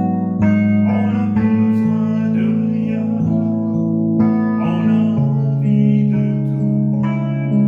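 A hymn sung by a man over instrumental accompaniment, with held chords changing every second or so.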